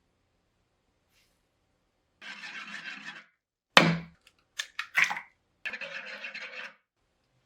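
Kitchen handling noise while making bread dough: two stretches of scraping or rubbing, each about a second long. Between them, a little under four seconds in, comes a sharp thump, the loudest sound, followed by a few quick clicks.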